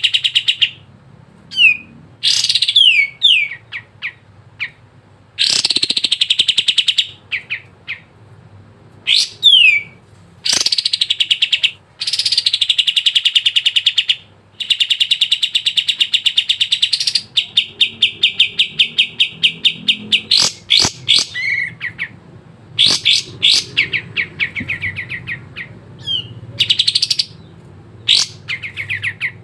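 A kapas tembak singing loudly and continuously in full song: long rapid trilled phrases alternating with short notes that slide downward, repeated throughout with only brief gaps.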